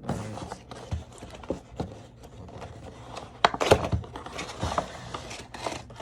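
Cardboard box and plastic packaging being handled and pulled apart: scraping, rustling and light irregular clicks and taps, with a sharper flurry of taps about three and a half seconds in.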